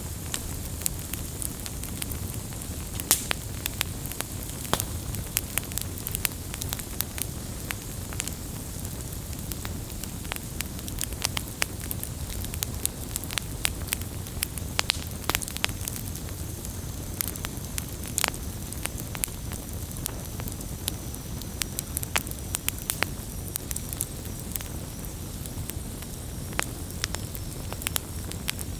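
Wood bonfire burning: a steady low rumble of flames with frequent irregular sharp pops and crackles of burning wood.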